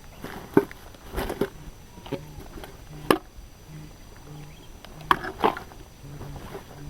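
Objects being handled at close range: an irregular series of sharp knocks and clicks, with the loudest strikes about half a second in, about three seconds in, and twice near five seconds in.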